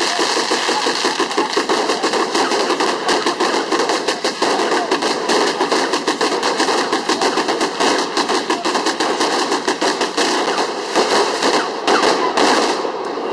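Fireworks going off in a rapid, continuous crackle of sharp bangs, too many to count, that dies away just before the end.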